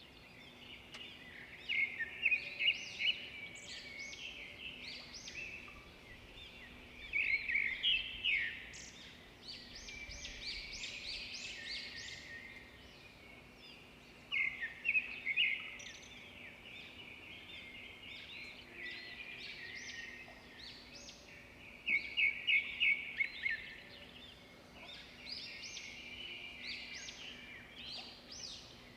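Birds singing in repeated bouts of quick chirps and trills, with short pauses between bouts. A faint steady hum runs underneath.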